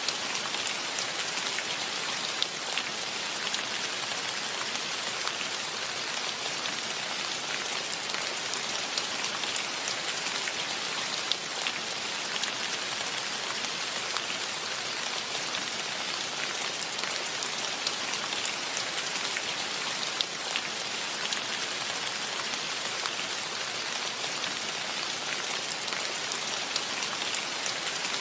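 Steady rain falling: an even hiss with scattered individual drops ticking close by.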